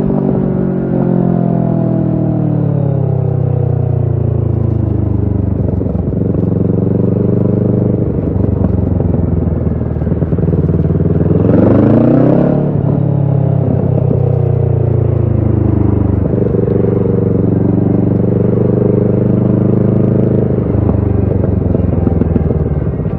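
Kawasaki Ninja 650's parallel-twin engine running through a Shark SRC-4 full exhaust while riding. Its note falls as the bike slows over the first several seconds, then holds at a cruising pace with gentle rises and falls. About halfway through there is a brief rushing swell of noise.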